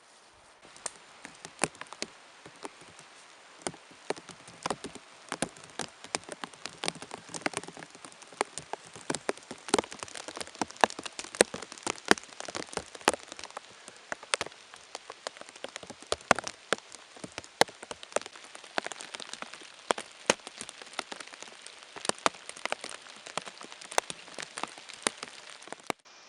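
Steady rain with many sharp, irregular drips of water.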